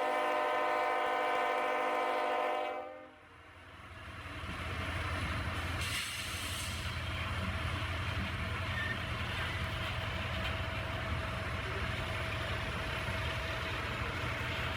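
A Canadian National freight locomotive's horn sounds a steady multi-note chord and cuts off about three seconds in. The train's low rumble and wheel noise then builds and runs steadily as it rolls past, with a brief hiss about six seconds in.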